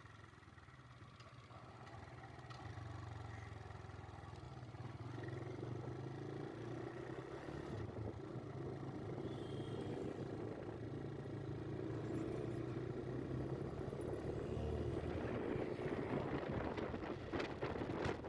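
A vehicle engine running with road and traffic noise on a ride, growing steadily louder.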